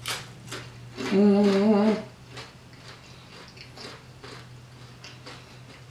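Crunching bites and chewing of crispy fried fish, with a steady closed-mouth "mmm" hum of relish about a second in, then faint chewing clicks.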